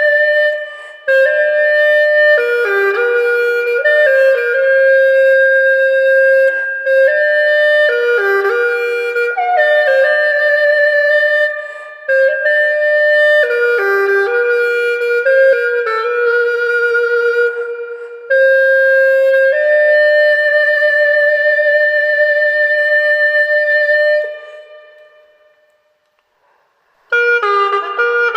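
Hulusi (Dai gourd cucurbit flute) playing a slow, single-line melody in phrases that break off briefly every few seconds. Near the end it falls silent for a few seconds, then starts again.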